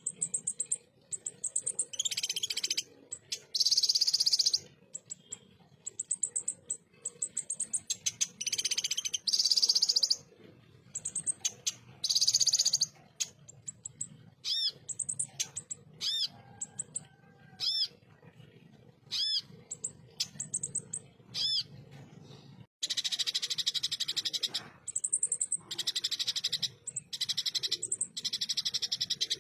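Kolibri ninja (konin) sunbird singing rapid, harsh 'tembakan' phrases: high buzzy rattling bursts with short gaps between them. A run of thin, arched whistled notes comes in the middle, and a dense stretch of song follows near the end.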